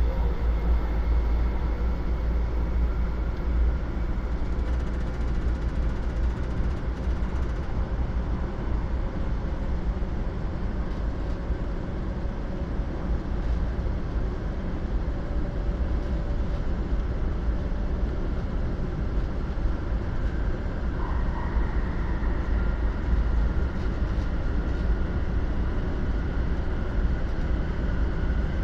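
Steady low rumble and running noise inside a moving 500 series Shinkansen car, with faint whining tones over it and a higher whine joining about two-thirds of the way through.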